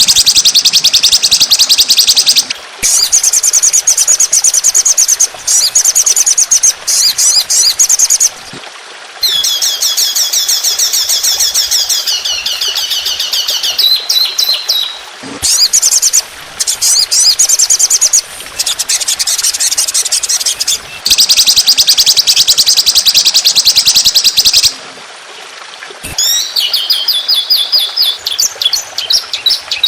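Songbird masteran recording of rapid-fire 'tembakan' fill song: fast strings of sharp, high-pitched repeated notes in bursts of one to four seconds with brief pauses between them, some phrases sliding down in pitch.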